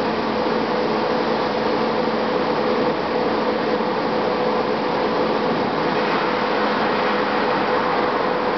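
2007 Gillig Advantage low-floor bus with a Cummins ISM diesel and Voith transmission running steadily under way, heard from inside the bus: an even drone of engine, drivetrain and road noise with a steady hum.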